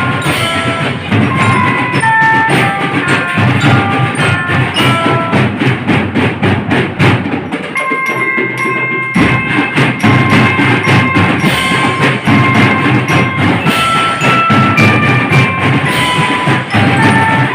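Marching drum band playing: snare and bass drums beat a dense rhythm under a melody of ringing metal mallet bells. The drums drop out for about a second midway while the bells carry on, then come back in.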